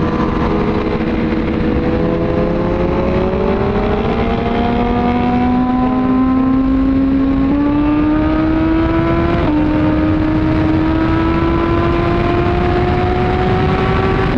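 Suzuki GSX-R1000R's inline-four engine through an Arrow exhaust pulling under load at highway speed, its pitch climbing slowly. There is a brief step in pitch about two thirds of the way in, and steady wind rush throughout.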